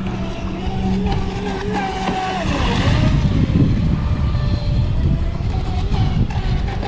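Brushless electric motor of a ProBoat Recoil 2 RC speedboat whining as it runs across the water, its pitch wavering and dipping briefly with the throttle about halfway through. Heavy wind noise rumbles on the microphone.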